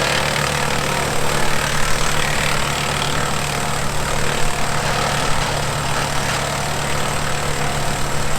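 Kubota M7060 tractor's diesel engine running steadily under PTO load, driving a Woodmaxx WM8H wood chipper, with a steady rushing noise over the engine.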